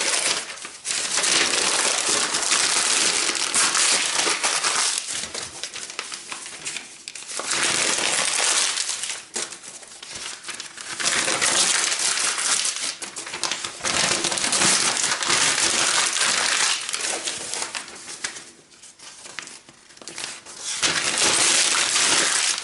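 Sheets of paper being crumpled by hand, in several long bouts broken by short pauses.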